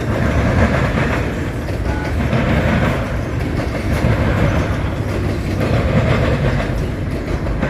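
Double-stack container freight train rolling past: a steady loud rumble of steel wheels on the rails, with rattling from the cars.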